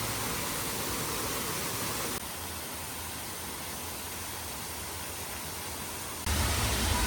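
Steady outdoor hiss with no distinct events. It drops abruptly about two seconds in and comes back louder with a low rumble near the end.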